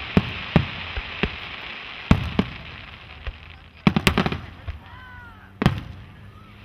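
Fireworks shells bursting overhead: a string of sharp bangs, with a rapid cluster of several bangs about four seconds in and one more single bang near the end.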